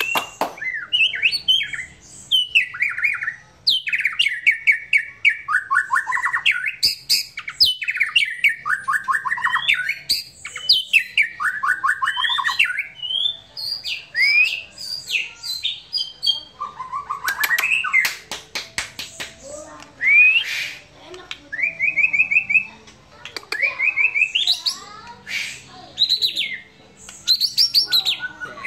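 White-rumped shama singing a relaxed, casual song. It runs through varied phrases one after another with short pauses: fast repeated trills, rising whistles and harsh chattering notes.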